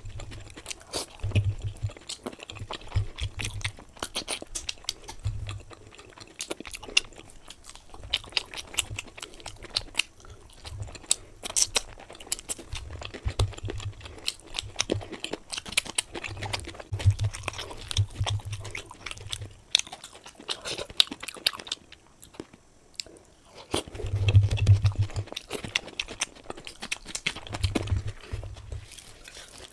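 Close-miked chewing of luchi flatbread and potato curry: irregular wet mouth smacks and clicks with occasional crunches, and low dull thuds every few seconds.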